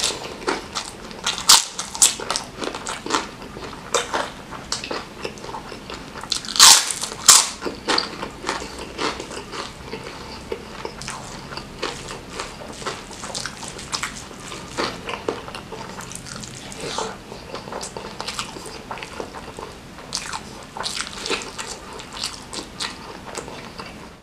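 Mouth sounds of eating nasi Padang by hand: chewing and lip-smacking in a dense run of short clicks. The loudest bursts come about a second and a half in and again around seven seconds in.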